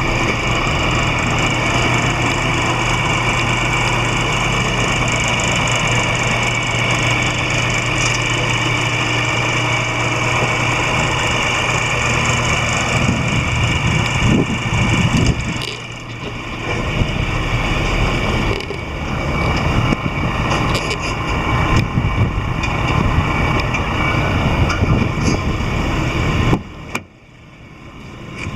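Lexus GS450h hybrid's 3.5-litre 2GR V6 engine idling steadily. Its sound grows less even in the second half, with brief dips, and drops away sharply near the end before picking up again.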